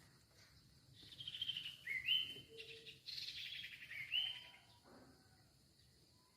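Songbird known in Vietnamese as Huýt Cô singing: a run of clear and slightly buzzy whistled phrases, with falling notes and two short rising whistles, that stops about two seconds before the end.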